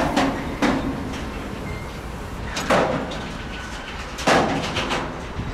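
Freight train rolling past with a steady rumble, broken by four heavy metallic clanks at uneven intervals.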